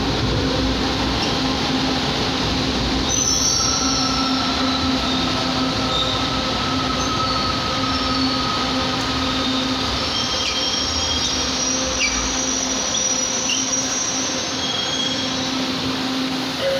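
Manila LRT-2 train pulling in alongside the platform and braking to a stop. A steady rolling rumble runs under a steady hum and high wheel and brake squeals. The rumble dies away over the last few seconds as the train halts.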